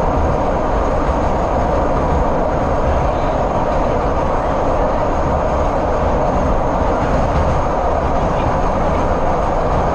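Heritage passenger train running along the track, heard from aboard a carriage: a steady rumble and rail noise with no breaks.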